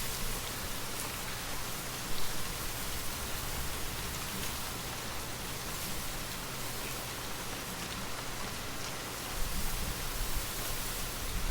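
Steady rain falling, an even hiss of many drops, with a low rumble swelling in near the end.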